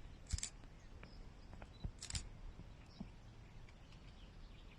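Dog sniffing hard in short bursts, twice about two seconds apart, while searching for a hidden odour.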